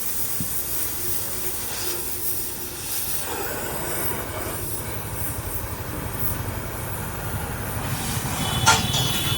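Gas cutting torch hissing steadily while cutting an air hole in a steel tractor wheel, with a short, sharp high squeal near the end.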